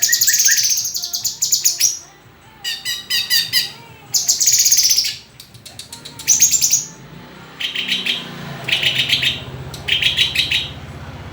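Murai songbird singing loud, varied phrases of about a second each, then a run of short repeated trills about once a second. A low steady hum comes in about halfway through.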